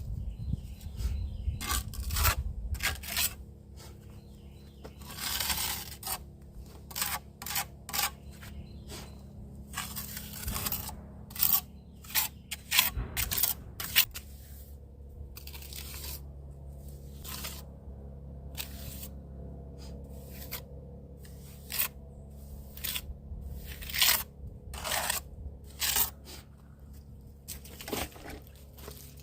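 Irregular short scraping and crunching noises, dozens of them, over a steady low hum.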